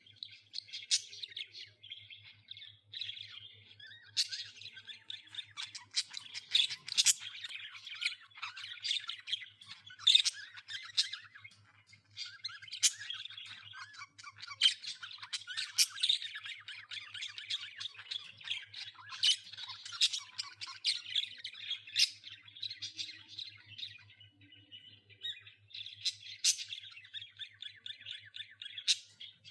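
A group of budgerigars chattering and warbling without pause, with frequent sharp squawks standing out from the steady chatter.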